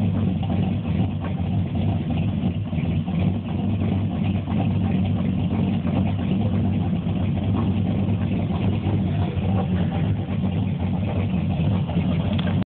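ZZ502 big-block Chevrolet V8 crate engine with Powerjection III throttle-body fuel injection, idling steadily.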